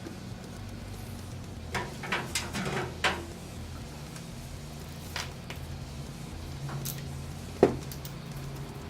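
Scattered clicks and knocks of computer parts being handled and fitted into a PC case: a quick cluster about two to three seconds in, a single click midway, and a sharp knock near the end, over a steady low hum.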